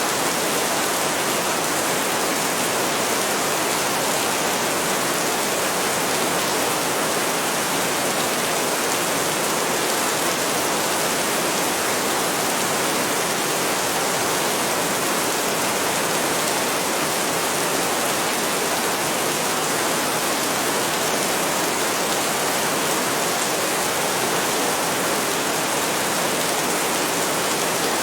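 Heavy rain falling steadily, an even dense hiss with no thunder and no change in intensity.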